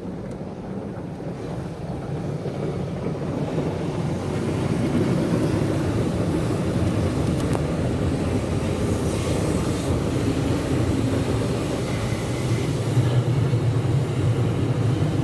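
Automatic car wash machinery running: a steady mechanical rumble and hiss that grows louder about four seconds in.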